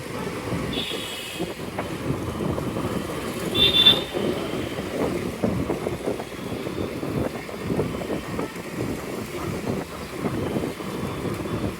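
Wind buffeting the microphone and road and traffic noise while riding an electric scooter, with little motor sound of its own. Two short, high beeps cut through, a faint one about a second in and a louder one near four seconds.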